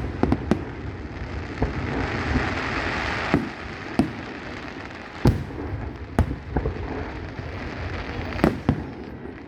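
Fireworks bursting overhead: about ten sharp bangs at uneven intervals, over a continuous noisy background.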